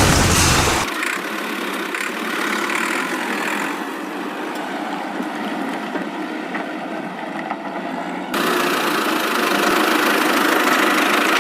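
Steady engine-like running noise, with a heavy low thump in the first second and a sudden change in tone about eight seconds in.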